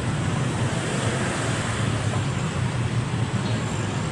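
Steady road traffic noise: an unbroken low rumble of passing vehicles on a city street.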